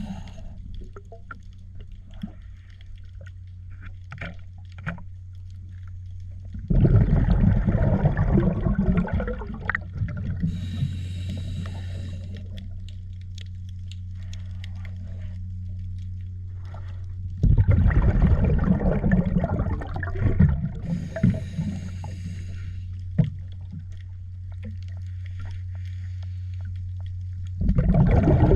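A steady mechanical hum from a pump or motor, broken three times, about ten seconds apart, by loud surges of rushing, gurgling water, each lasting about three seconds.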